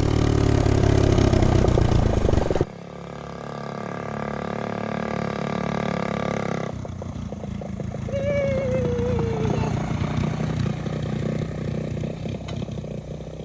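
Honda Z50 mini bike's small single-cylinder four-stroke engine running while it is ridden through its gears. It is loud at first, drops suddenly about two and a half seconds in, then rises and falls with the throttle.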